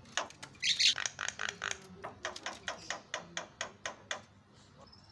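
Javan myna (jalak kebo) calling: a harsh, loud screech about a second in, followed by a quick run of short, sharp clicking notes at about four a second that fades out near the end.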